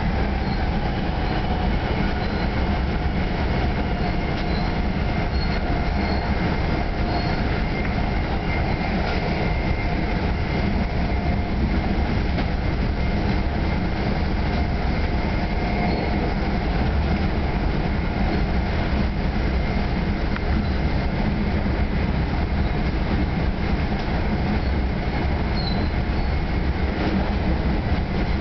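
Steady rumble and rolling noise of an NJ Transit Comet VI multilevel passenger car running at speed, heard from inside the car, with a faint steady whine over it.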